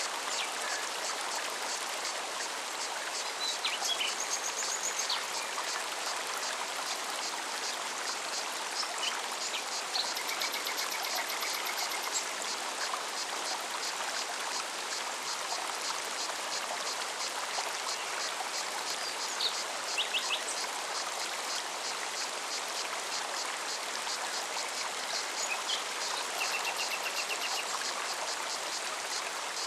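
Mountain stream running steadily over rocks, with a cicada's fast, even pulsing song high above the water and a few short bird chirps and trills, one near the middle and one near the end.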